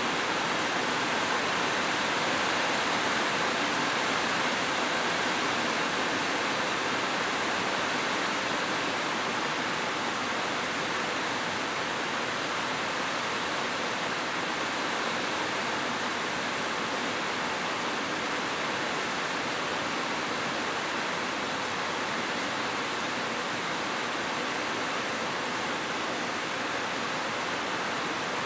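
Heavy rain falling steadily, an even rushing hiss with no separate drops or thunder standing out.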